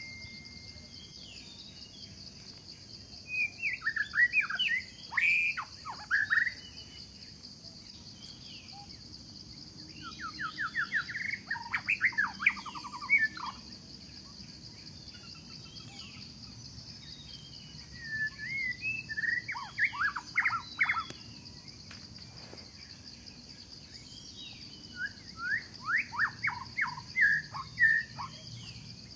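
A songbird singing a phrase of quick, rapidly repeated notes four times, about every seven seconds, over a steady high-pitched drone of insects.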